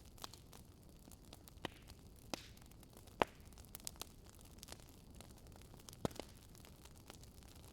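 Wood fire crackling: scattered sharp pops and snaps, irregularly spaced, over a faint low hiss, with the loudest pop about three seconds in.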